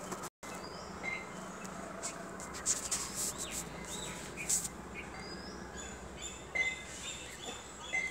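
Birds chirping in short, high, scattered calls over a steady background hiss. The sound drops out completely for a moment near the start.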